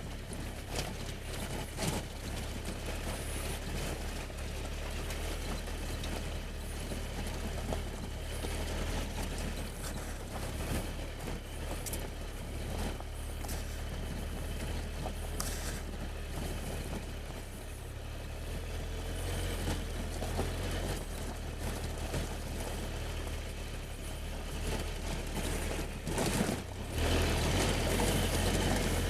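Triumph Tiger 1200 inline-triple motorcycle engine running at low speed as the bike climbs a rough, steep track, with the engine rumble, wind noise and small knocks from the bike jolting over the ground.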